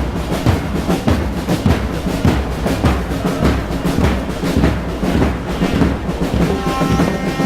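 Drums of street-celebrating football fans, bass drum and snare, beating a fast steady rhythm. A held pitched tone joins in near the end.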